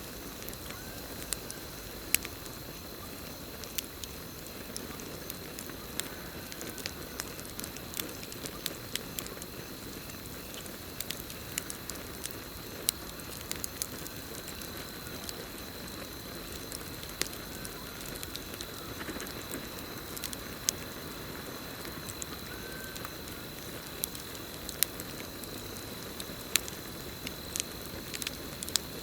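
Wood campfire crackling, with frequent sharp pops scattered irregularly over a soft hiss of burning. Behind it runs a steady high trill of night crickets, and a faint short call recurs every few seconds.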